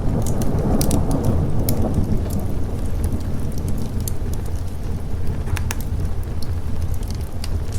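Steady rain with a rumble of thunder, heaviest in about the first two seconds and easing after. Scattered sharp crackles of a wood fire run through it.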